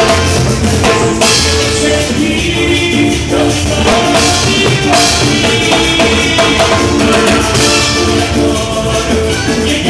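A Latin dance band playing an instrumental passage with a steady beat: drums and percussion under bass and sustained melody notes.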